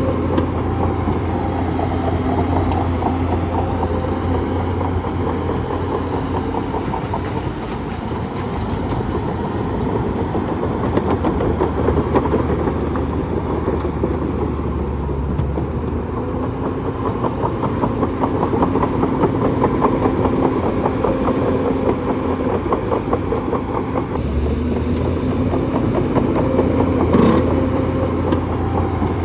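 Bulldozer's heavy diesel engine running steadily with a fast, even rattle over it, its pitch shifting a little now and then.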